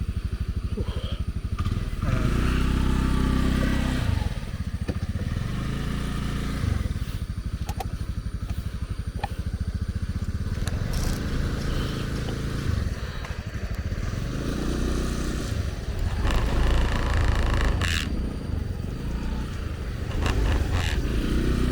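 Small motorbike engine running, revving up and dropping back several times.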